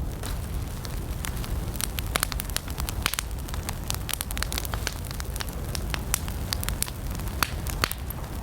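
Wood campfire burning: many sharp, irregular crackles and pops over a steady low rush of flame.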